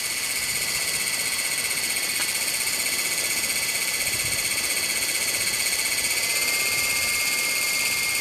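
Electric motors of a small radio-controlled copter in flight, giving a steady high-pitched whine whose pitch rises slightly about six seconds in.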